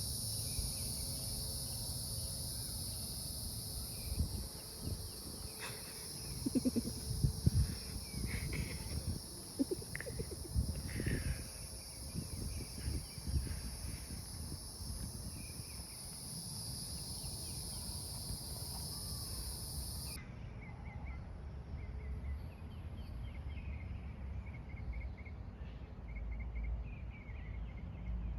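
Steady high-pitched insect chorus that stops abruptly about two-thirds of the way through, with faint bird chirps after it. Louder irregular low knocks and rustles come in a cluster in the first half.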